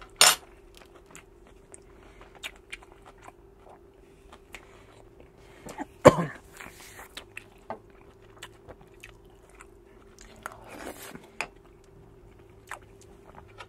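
Close chewing of a mouthful of salmon larb and rice, with many small scattered mouth clicks. There is a sharp knock just after the start and a louder burst about six seconds in. A faint steady hum runs underneath.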